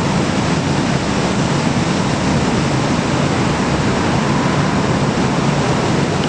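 Strong gusty wind buffeting the microphone, a steady loud rushing noise with no break.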